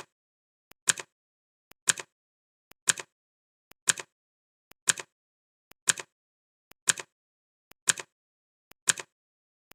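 Clock ticking sound effect of a countdown timer, one sharp double-click tick about every second, steady and even.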